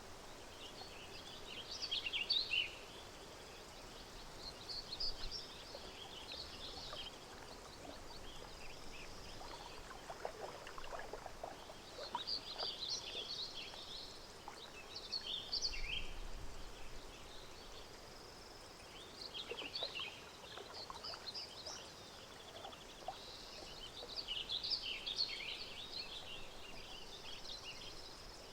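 Lake and park nature ambience: small birds singing in bursts of high chirps every few seconds over a faint steady background of gently moving water.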